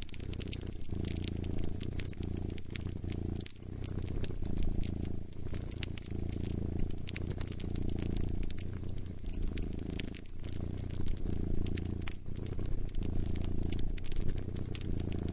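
A domestic cat purring close up, the low purr pausing briefly between breaths every second or two, with a fire crackling and popping over it.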